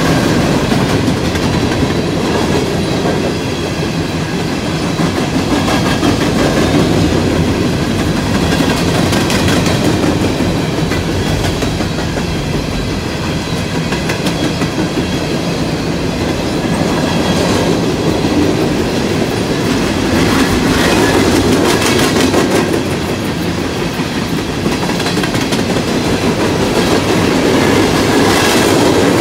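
CSX coal train's freight cars rolling past at close range: a steady, loud rumble with the clickety-clack of wheels over rail joints.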